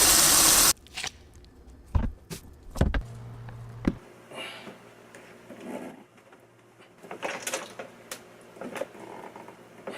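A loud rushing noise cuts off abruptly just under a second in, followed by a scattering of knocks, clicks and light rustling as the plastic parts of a tower air cooler are handled, with a brief low hum around the third second.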